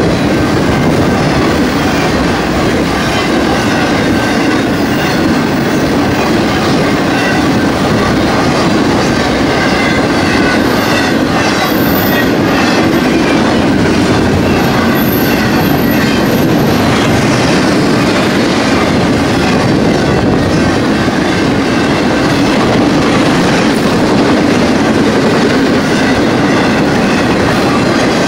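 Intermodal freight train's container and trailer well cars rolling past, a loud steady rumble of steel wheels on rail with clickety-clack over the rail joints.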